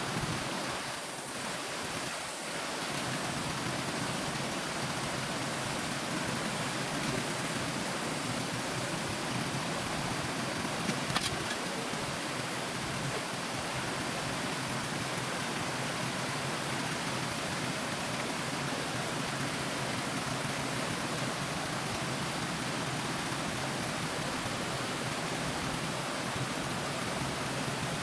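Steady rush of flowing stream water, with one brief click about eleven seconds in.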